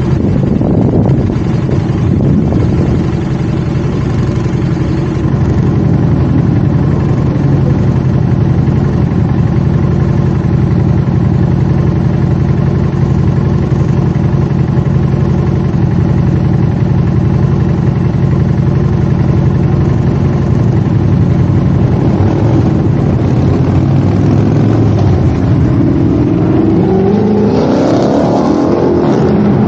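Motorcycle engine running at a steady pace while riding, then accelerating near the end with its pitch rising.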